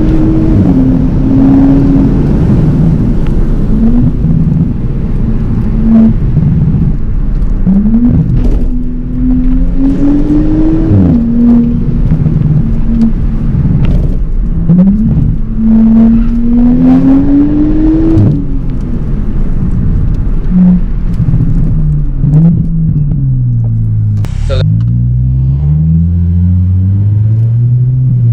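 Straight-piped Audi B9 S5's turbocharged V6 exhaust under hard acceleration: the revs climb and drop sharply at each upshift, twice in the middle. Near the end the revs fall as the car slows, then climb again as it pulls away.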